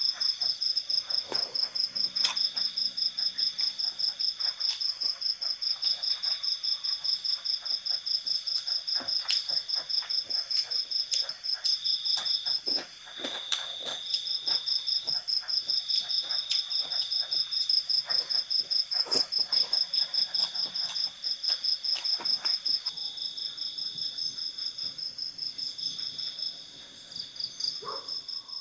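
Insects chirping in a steady, high-pitched pulsed trill of about five pulses a second, over a second continuous chirping layer, with brief breaks about midway and later on. Scattered light clicks and knocks sound beneath it.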